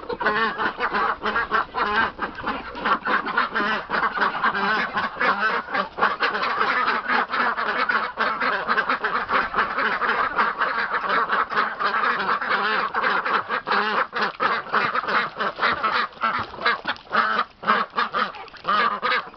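A flock of domestic ducks quacking continuously, with many calls overlapping.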